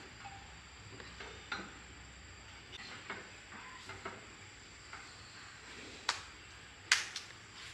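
Hand tools and metal parts clicking and clinking, scattered light taps with two sharper clinks about six and seven seconds in.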